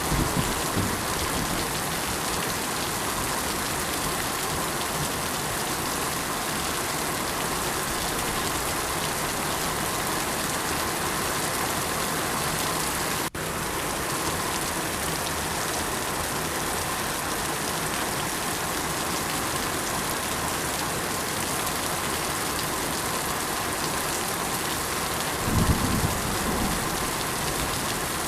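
Steady rain falling, an even hiss of many drops. There is a momentary dip about halfway through and a short low rumble near the end.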